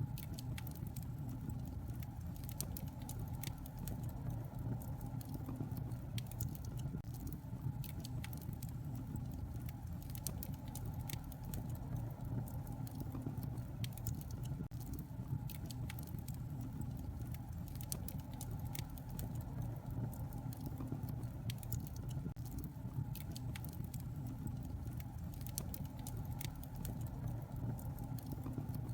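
Wood fire crackling, with many small irregular pops and snaps over a steady low rushing rumble.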